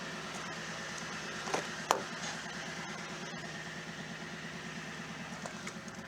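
A vehicle engine idling steadily with an even pulse, and a sharp click about two seconds in.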